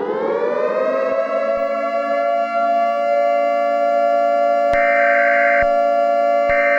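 Civil defense siren finishing its wind-up in the first second, then holding a steady, loud wail. About two-thirds of the way through, a harsher buzzing tone starts pulsing on and off, roughly a second on and a second off.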